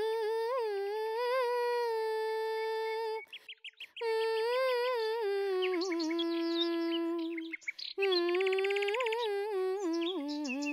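A woman humming a slow wordless melody, holding long notes with ornamented turns in three phrases with short breaks between them. Birds chirp briefly in the middle and near the end.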